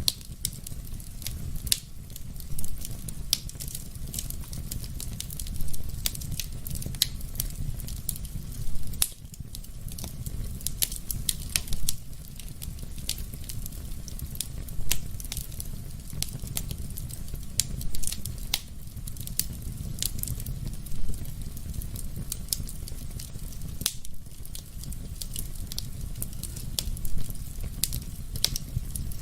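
Wood fire in a fireplace, crackling and snapping steadily over a low rumble of flame, with a louder pop about every three seconds.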